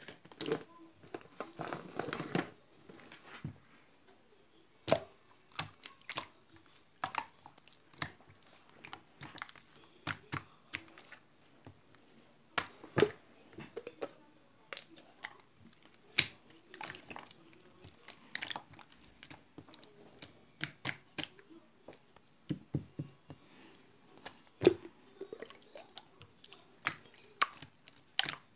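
Slime being pressed, folded and stretched by hand, giving irregular sticky clicks and pops, with a brief rustling crackle about two seconds in.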